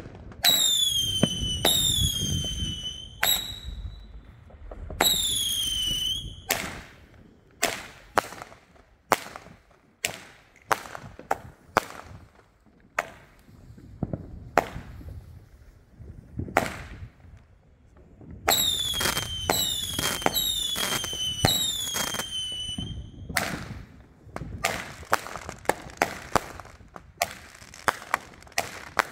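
Supreme Fireworks 'Super Show' firing, with whistling shots that each fall in pitch, several in quick succession near the start and again about two-thirds through. Sharp bangs and cracks of bursting shots run throughout, packed into a rapid run near the end.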